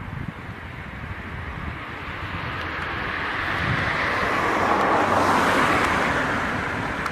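A road vehicle passing by: its noise swells gradually, peaks about five seconds in, then fades away.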